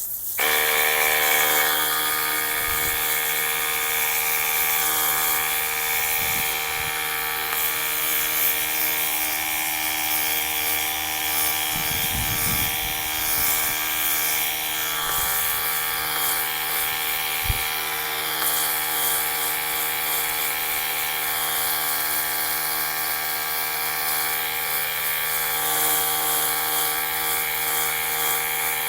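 Electric compressor of a Simoniz cordless foam cannon starting about half a second in and running at a steady pitch, switching on to keep the tank pressurised as foam is sprayed. A few light knocks sound over it.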